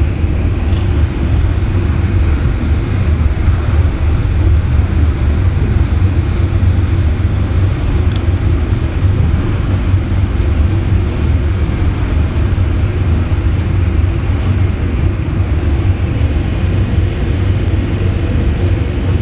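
Steady low rumble inside the cabin of a Boeing 787-8 after landing, its engines running as it taxis.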